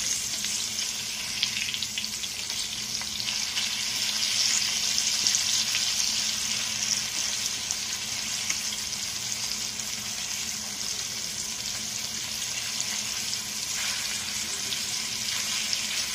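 Rice-flour-coated button mushrooms sizzling steadily as they shallow-fry in hot oil on a flat tava, with a metal spatula scraping the pan now and then.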